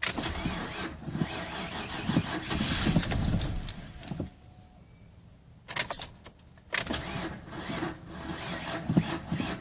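A 1991 Mercury Grand Marquis's 5.0 V8 being cranked on the starter and failing to catch, in two attempts about a second and a half apart. It is a hard cold start: the engine is reluctant to fire until it warms up.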